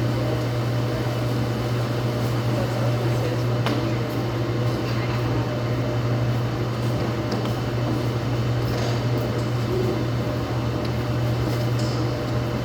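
Laundromat machines running: a steady low hum and even machine noise, with a few faint clicks.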